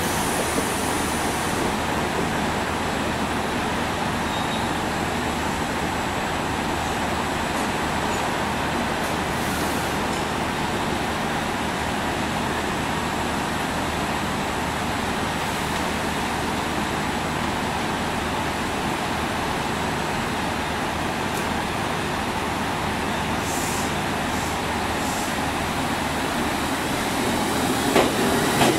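JR Kyushu 787 series electric train running steadily at a standstill, then starting to pull away near the end, with a single clunk as its noise rises.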